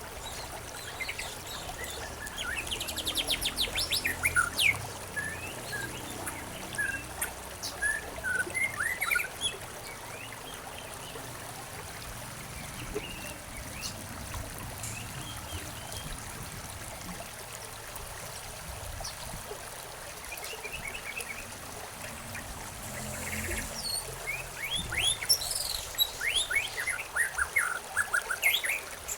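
Songbirds chirping and calling over a steady trickle of flowing water. The calls come thick in the first few seconds and again in the last few, with a stretch in between that is mostly water and only a few scattered chirps.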